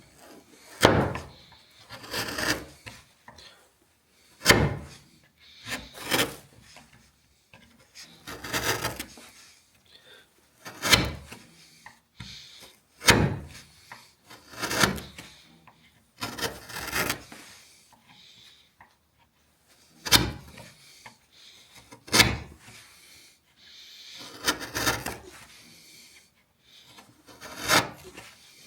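Chisel cutting through wood end grain: a sharp knock every few seconds, each followed by a longer rasping scrape as the chisel pares away wood.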